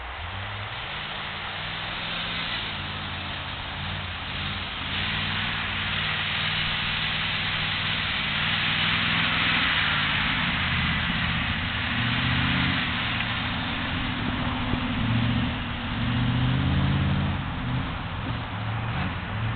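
A vehicle engine running throughout, its pitch stepping up and down as the revs change, over a steady hiss.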